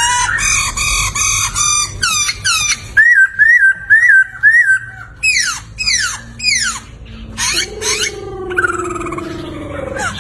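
Poksay (laughingthrush) singing a loud, varied song of repeated whistled notes. About three seconds in comes a run of four quick rising-and-falling notes, then fast downward-sweeping calls, then a long, lower wavering note near the end.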